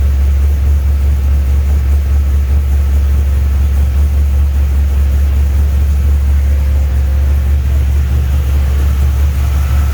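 LS2 V8 engine idling steadily, a loud, even low hum with no revving, on its first startup with the air conditioning running.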